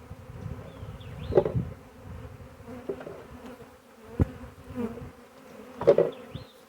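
Honey bee swarm buzzing in a steady hum as the bees are hived into a box. A few sharp knocks come about a second and a half in, near the middle and near the end.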